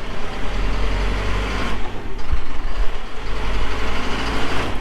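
A truck engine running under load, a deep rumble whose pitch rises twice as it is revved.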